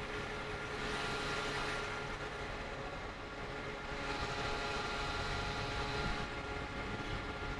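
Motor vehicle running, a steady low rumble with swells of road or wind noise about a second in and again from about four to six seconds in.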